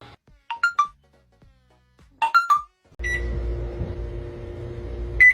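Two runs of three short beeps of differing pitch, then a steady electrical hum with a high whine, like a microwave oven running, cut off by a loud beep near the end.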